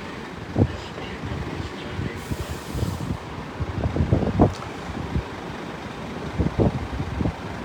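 Heavy lorries driving past in a convoy, engines running, with wind buffeting the microphone in irregular low thumps.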